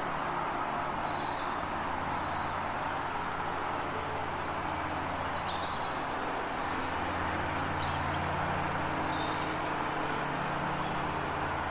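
Small birds chirping in short, scattered high calls over a steady background rush and a low hum like distant road traffic, the hum growing a little louder past the middle.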